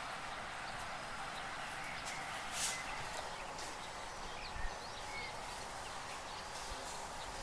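Outdoor rural ambience: a steady hiss with faint bird chirps and a few short knocks or clinks, the sharpest about two and a half and four and a half seconds in.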